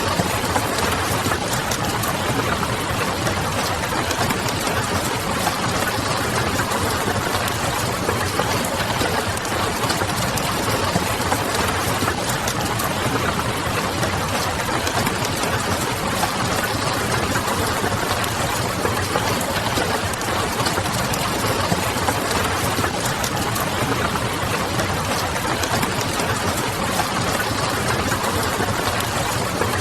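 Steady rain with a wood fire crackling softly and a low, distant hum underneath, all running as one unbroken ambience.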